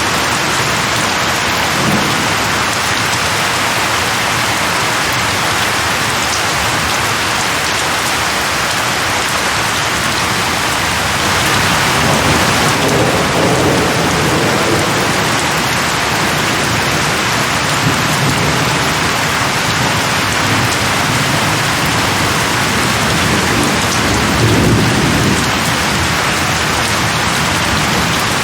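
Steady heavy rain falling, with low rumbles of distant thunder swelling twice, around the middle and again near the end.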